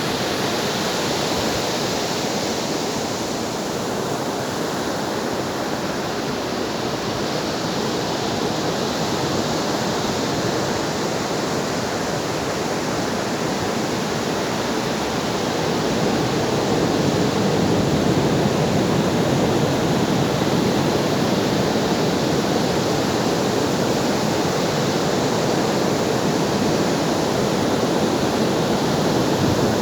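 Ocean waves breaking and washing on a shore in a continuous hiss, with a slow swell that grows a little louder about halfway through.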